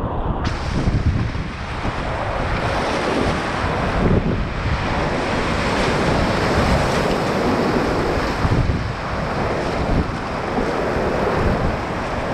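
Steady rushing roar of high-water whitewater rapids, with wind buffeting the microphone. The sound turns suddenly brighter and fuller about half a second in.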